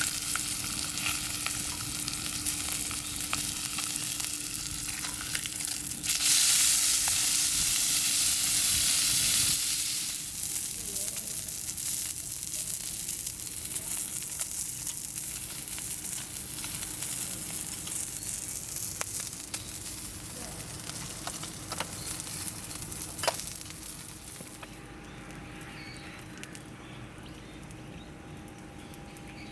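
Wood campfire burning, a steady hiss with scattered small crackles. The hiss swells louder for a few seconds about a quarter of the way in, there is one sharp pop later, and the fire quietens near the end.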